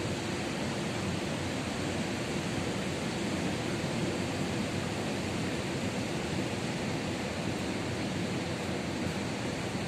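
Ocean surf: a steady, even wash of breaking waves with no single wave standing out.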